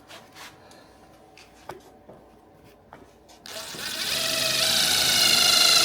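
A few light handling clicks, then about three and a half seconds in a power drill starts suddenly and runs up to speed, drilling a pre-hole into a fender hinge.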